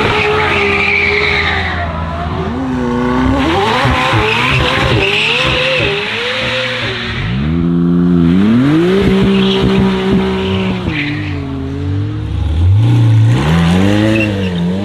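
A high-performance car engine revving hard, its pitch climbing and holding several times as it pulls through the revs, with stretches of tyre squeal.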